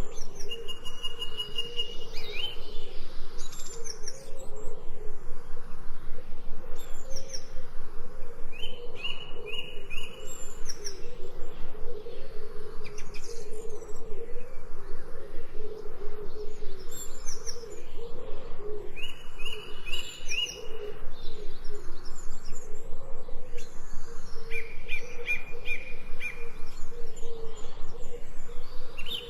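Songbirds chirping, with a short trilled phrase repeated every few seconds and high chirps in between, over a steady low wavering tone.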